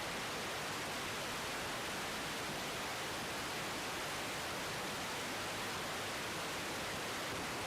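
Steady, even hiss of radio static on the air traffic control feed between transmissions.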